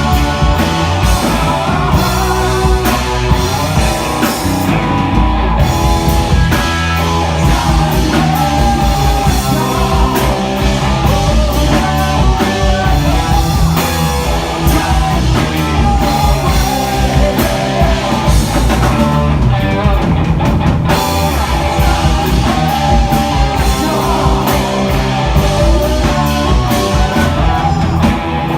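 Rock band playing live, loud and dense: distorted electric guitars, bass and drum kit, with a singer's voice.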